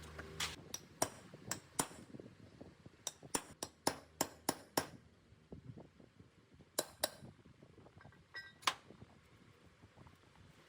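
A run of light, sharp metallic clinks and taps, like small metal parts or hand tools being picked up and set down on a hard workbench. They come in three bunches: several quick clinks early on, a faster cluster around the middle, and a few more later, thinning out toward the end.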